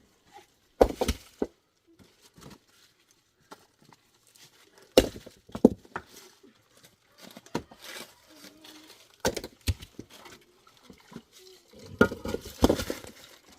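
Sharp knocks and clinks of hard objects striking together, in four short clusters a few seconds apart, the last the longest.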